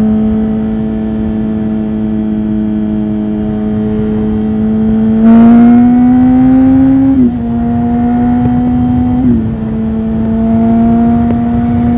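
Suzuki GSX-R 1000 inline-four engine through a Bodis exhaust with no dB killer, pulling steadily at speed. About five seconds in the throttle opens and it gets louder, the pitch climbing, then two quick upshifts follow about seven and nine seconds in.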